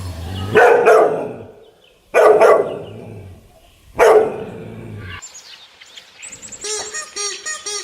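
Dog barking: three loud barks about two seconds apart. After them comes a quick run of short, high repeated chirps.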